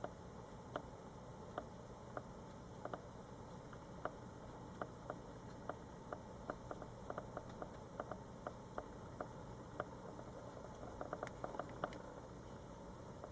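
Light, irregular clicks or ticks, one to three a second and bunching up about eleven seconds in, over a faint steady hum.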